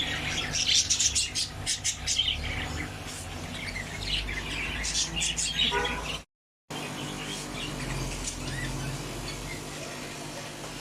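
Many small cage birds chirping and twittering together, a dense chorus of short high calls that thins out in the second half. The sound drops out completely for about half a second around six seconds in.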